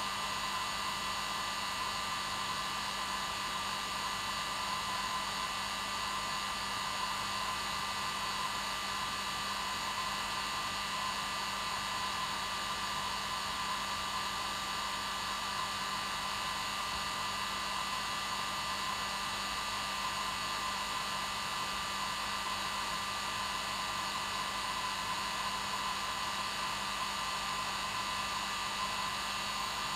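Hair dryer running continuously on its normal setting: a steady airy rush of fan noise with a constant motor hum and whine, unchanging throughout.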